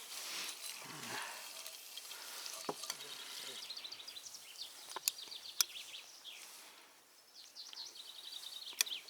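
Campfire hissing and crackling, with a few sharp pops. Songbirds trill twice in the background, quick runs of high chirps.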